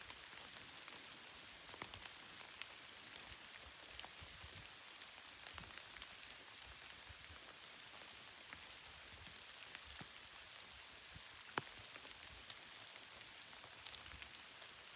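Light rain falling: a soft, steady hiss with scattered single drops ticking, one louder drop about three quarters of the way through.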